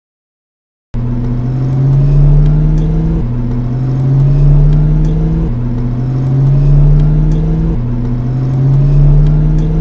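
2000 Ford Mustang GT's 4.6-litre V8 accelerating. It starts about a second in, its pitch rising and then dropping back suddenly four times, carrying what sounds like an exhaust leak under acceleration, though shops have told the owner it is not one.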